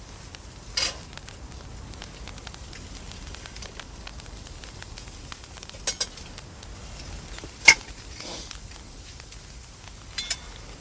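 A steady faint hiss, with a few sharp clicks and knocks scattered through it, the loudest a little past the middle.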